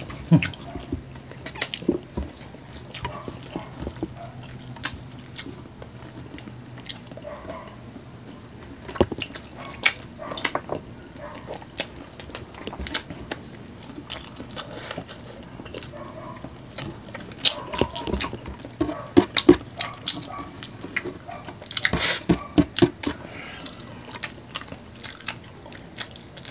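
Close-up eating sounds of chicken feet adobo being chewed and sucked off the bone: irregular wet smacks and clicks from the mouth, denser and louder in a couple of stretches partway through and again later.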